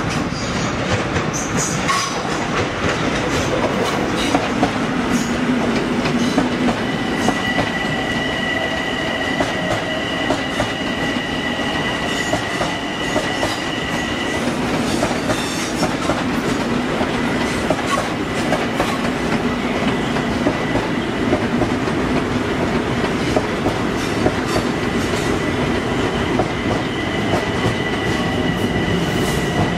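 Long Island Rail Road electric commuter trains running through the station: a steady rumble of wheels on rail with clicking over the rail joints. A steady high whine sounds from about seven seconds in for several seconds, and again near the end.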